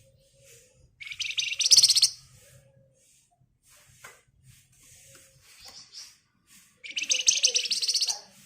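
Javan fulvetta (wergan Jawa) giving two loud, very rapid buzzing rattles, each about a second long and roughly five seconds apart, with faint short chirps in between.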